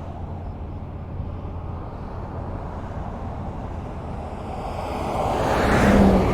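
Highway traffic: a steady rumble of cars, with one vehicle passing close by, its tyre noise rising in the last couple of seconds to a peak near the end.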